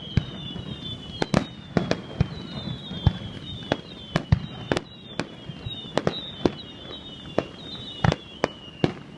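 An aerial fireworks display: sharp, irregular bangs of bursting shells, about two a second. Through most of the display there is a repeated short, high whistle that falls in pitch.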